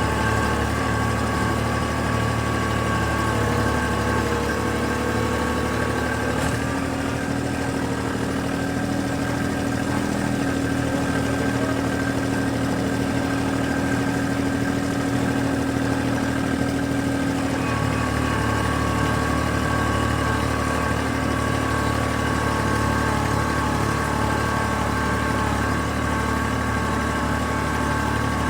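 An engine running steadily. Its note changes for about ten seconds in the middle, then settles back.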